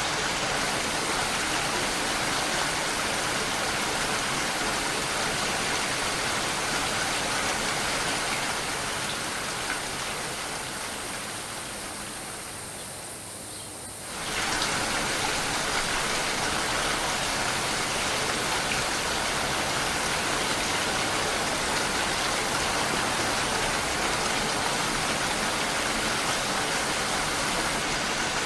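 Steady heavy rain falling. About 8 seconds in it gradually grows softer and duller, then snaps back to full strength about 14 seconds in.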